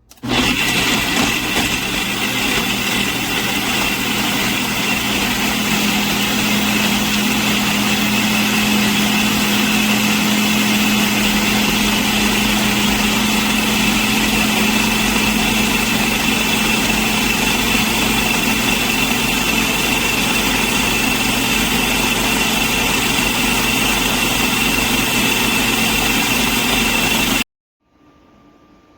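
Blender motor running at a steady high speed. It starts abruptly and cuts off suddenly about a second and a half before the end.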